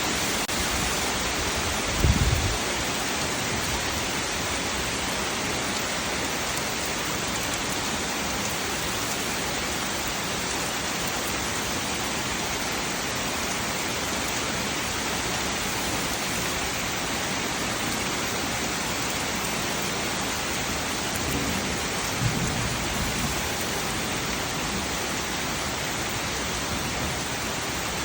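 Steady heavy rain falling, an even hiss throughout. Two brief low rumbles break through, about two seconds in and again about twenty seconds later.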